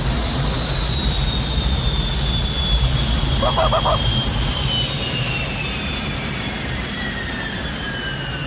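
Small jet engine running on diesel fuel: a high turbine whine that glides steadily down in pitch over a low rumble, slowly getting quieter.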